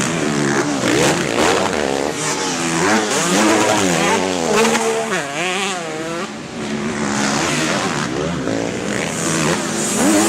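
Several motocross dirt bike engines revving hard, their overlapping pitches rising and falling as the bikes accelerate and shift.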